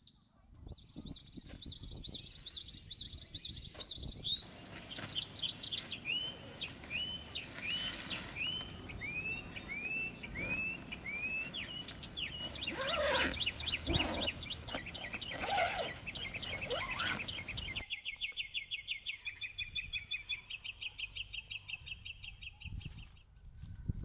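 Small birds calling: quick high chirps, then a run of down-slurred notes about twice a second, then a fast even trill that stops suddenly near the end. Several knocks and rustles in the middle.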